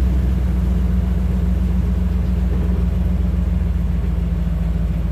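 Car engine and road noise heard inside the cabin while driving: a steady low hum with no sudden changes.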